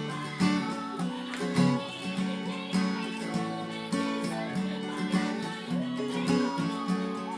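Acoustic guitar strummed in a steady rhythm, playing a chord progression of a J-pop song.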